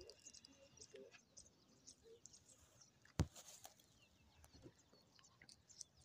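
Near silence, with faint, scattered high chirps of distant birds and a single sharp knock about three seconds in.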